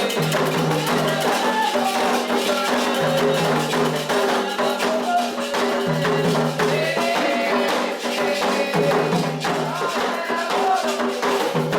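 Candomblé ritual music, the toque for Oxóssi and Ossaim: hand drums and rattles in a steady, dense rhythm under group singing.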